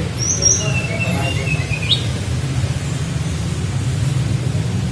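Tledekan flycatcher whistling: a few high, thin chirps, then one long level whistled note that ends with a quick rising flick about two seconds in. A steady low hum runs underneath.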